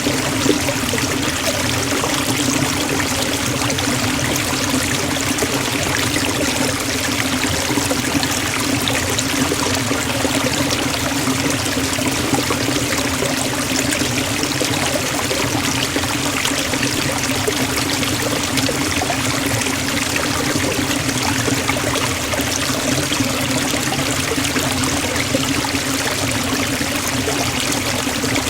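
Waterfall in a forest, water falling and splashing in a steady rush with a low rumble underneath.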